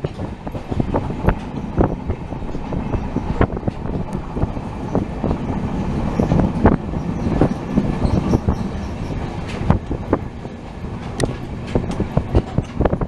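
Passenger train running at speed, heard from on board: a steady rumble of coach and wheels on the track with frequent irregular knocks and clatter from the wheels and rail joints.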